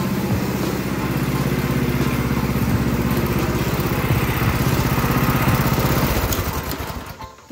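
Predator 212 single-cylinder four-stroke engine on a go-kart running at a steady speed under way, its sound fading out near the end.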